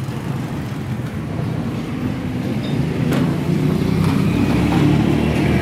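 Honda CG 125's single-cylinder four-stroke engine running steadily, getting a little louder toward the end. It is being run on its original Atlas Honda CDI unit, which the owner blames for the bike's misfiring.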